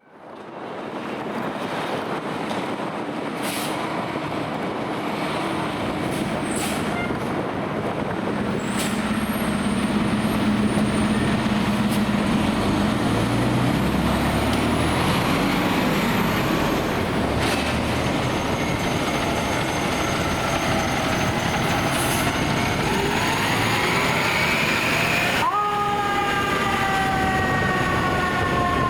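Fire apparatus going by on an emergency run: heavy diesel engines and road noise, with a siren. Near the end a siren tone winds up in pitch; after an abrupt change, a siren tone with several pitch lines slides slowly downward.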